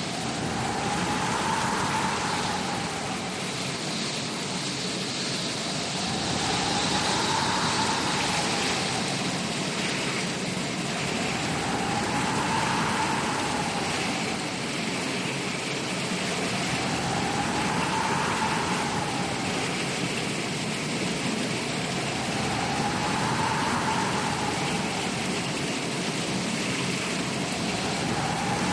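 Storm sound effect of steady rain hiss with wind gusting. A whistling wind tone rises and falls about every five and a half seconds as the sound swells.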